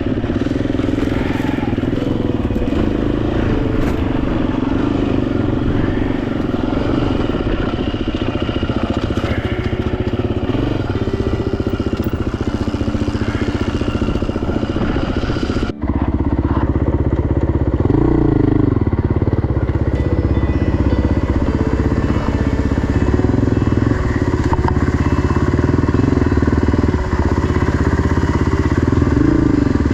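Dirt bike engine running steadily while under way, with the revs rising briefly twice in the second half. The sound breaks off for an instant a little past halfway.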